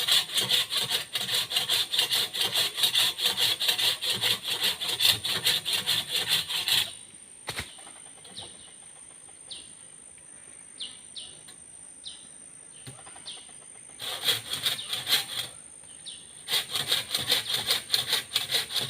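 Hand saw cutting through wood in quick, rhythmic back-and-forth strokes. The sawing stops about seven seconds in, comes back in a short burst, pauses again and then resumes.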